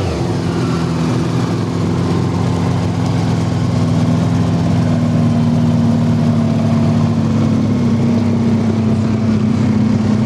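BMW K1200LT's 1200 cc liquid-cooled inline-four engine idling steadily after a rev, with no unusual mechanical noise.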